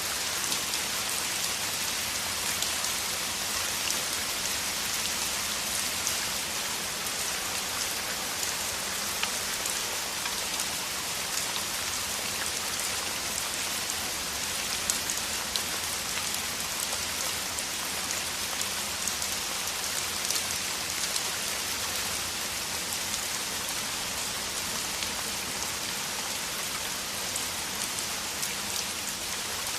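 Heavy rain falling steadily: a dense, even hiss peppered with countless small drop ticks.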